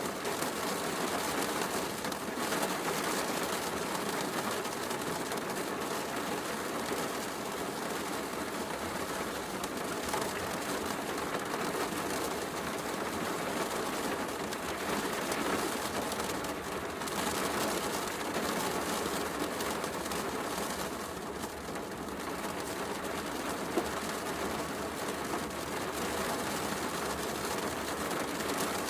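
Heavy rain falling steadily, mixed with a fireplace crackling, as one even wash of noise. One sharp pop stands out a little before the end.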